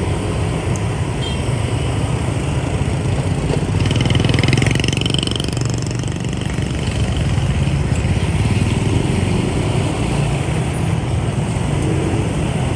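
Motorbike engines running in dense street traffic, a steady low drone, with a brief higher-pitched sound about four seconds in.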